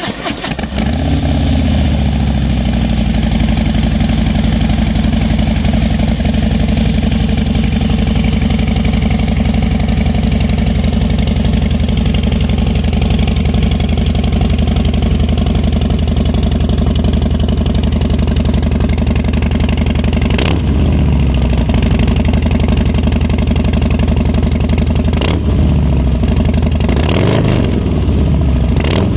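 2022 Harley-Davidson Low Rider S's Milwaukee-Eight 117 V-twin, breathing through an aftermarket Pitbull Cycle exhaust, starting and flaring briefly, then settling into a steady idle. A few short throttle blips come in the last third.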